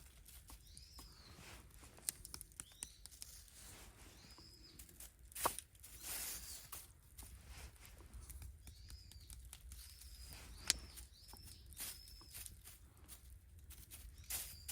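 Small bird giving repeated short, high, arching chirps, with rustling and scattered sharp clicks, two of them louder, about five and eleven seconds in.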